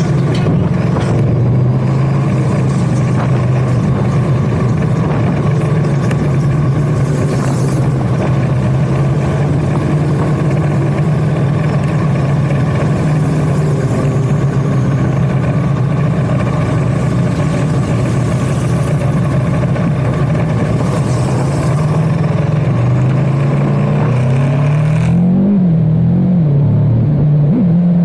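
Motorcycle engine running at a steady cruise with wind rush. Near the end the wind drops away and the engine revs up and down several times.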